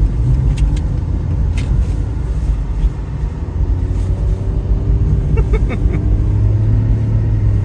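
A car driving, with a steady low rumble of engine and road noise; a faint engine note climbs slowly in the middle.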